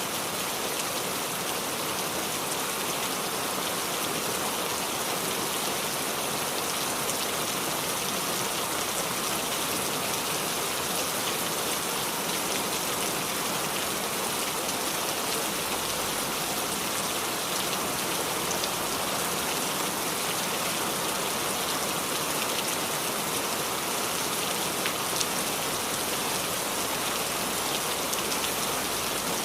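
Steady rain falling on leaves of a small tree: an even hiss with many small drip and drop ticks.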